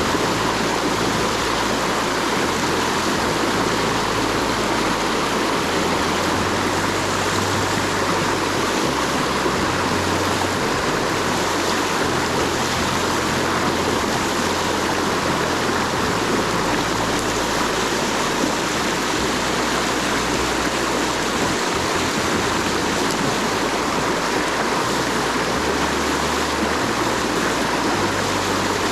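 Steady rush of water pouring over a dam, an even unbroken roar with no pauses.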